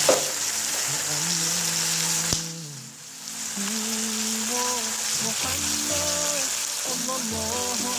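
Tomato paste sizzling as it fries in hot oil in a pan, a steady hiss that drops away briefly about two and a half seconds in and then carries on.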